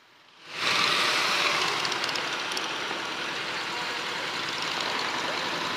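Steady rush of wind and road noise from a sport motorcycle under way, with the engine underneath. It fades in about half a second in and holds evenly.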